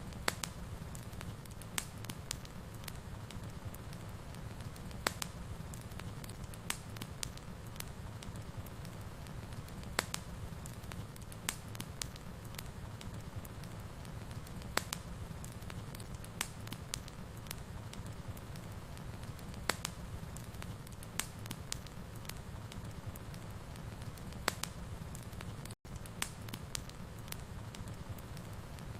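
Wood fire burning in a fireplace: a steady low rumble of flames with sharp crackles and pops at uneven intervals, and a split-second dropout about 26 seconds in.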